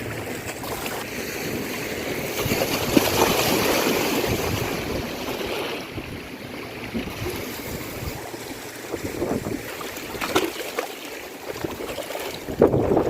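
Sea water washing in: a rushing wave that swells a couple of seconds in and subsides about six seconds in, with wind on the microphone and a few knocks near the end.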